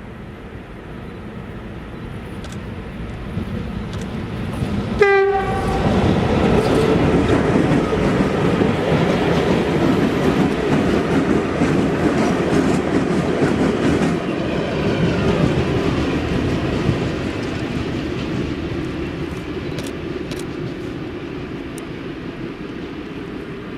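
VL10U-series electric locomotive sounding a short horn blast about five seconds in, then passing close with a loud rumble of wheels and running gear on the rails. The rumble eases off over the last several seconds.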